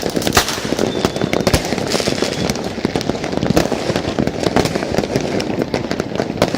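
Many fireworks and firecrackers going off at once: a dense, continuous crackling of overlapping bangs and pops with no pause.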